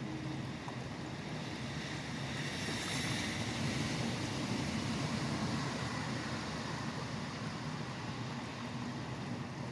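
Steady rain with the hiss of highway traffic on wet road. One vehicle passes, swelling about three seconds in and fading away over the next few seconds.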